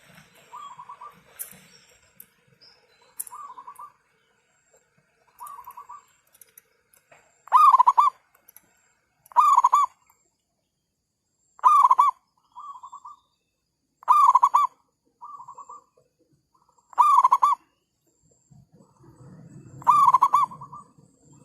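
Zebra doves cooing: short, rapid staccato coo phrases, a loud one every two to three seconds, with fainter coos in the gaps between them.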